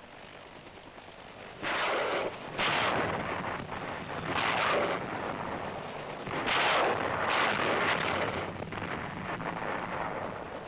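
Rockets fired from an armed UH-1B helicopter, a series of about six blasts, each lasting under a second, over several seconds.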